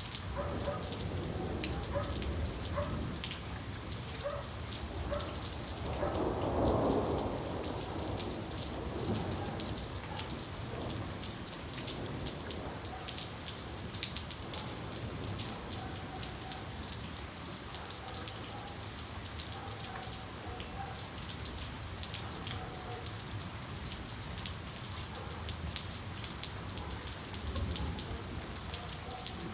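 Steady rain falling, with individual drops ticking throughout and a short, louder rumble of thunder about seven seconds in.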